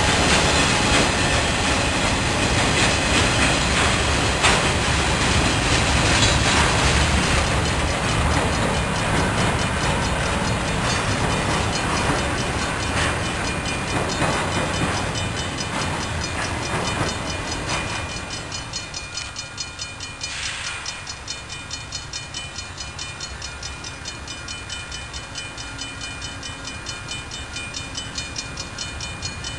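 A train rolling past, its wheels clicking over the rail joints. The noise is loud at first, then fades from about two-thirds of the way in as the train draws away, leaving a quieter, evenly repeating clatter.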